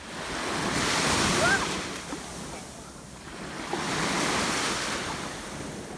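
Sea waves washing onto a beach, two surges about three seconds apart, with a brief voice about a second in.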